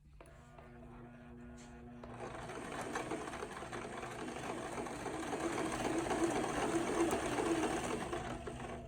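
Electric sewing machine running a zigzag stitch around the border of an appliqué patch. It starts up at the beginning and builds over the first couple of seconds, then runs steadily.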